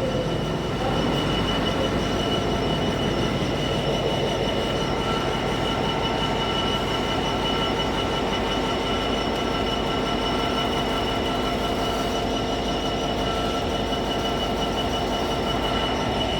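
Freight train of hopper wagons rolling past at a steady pace, the wheels giving off a continuous high squeal over the rumble.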